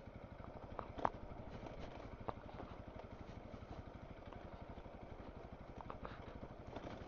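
Honda CRF300L's single-cylinder four-stroke engine running steadily as the dual-sport bike is ridden along a trail, with a few short sharp knocks, the loudest about a second in.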